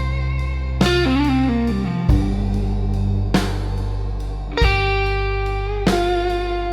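Slow electric blues instrumental: a lead electric guitar plays sustained, bent notes over a steady bass and drums, with a drum hit about every second and a quarter. A falling bend comes about a second in.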